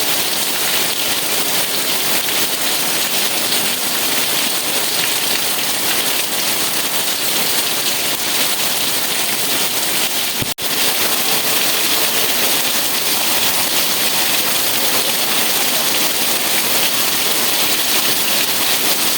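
Steady rain falling, an even hiss that cuts out for an instant about ten and a half seconds in.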